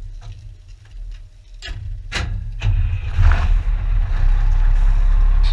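Scania T144's V8 diesel engine running with a deep steady rumble, getting louder about two seconds in, with a few sharp clicks around that point.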